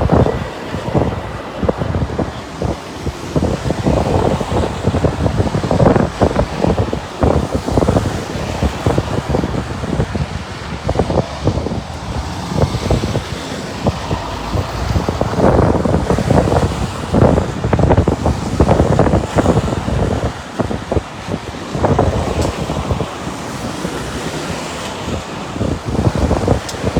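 Lorries and cars driving past with engines running, heavily buffeted by wind on the microphone in irregular gusts.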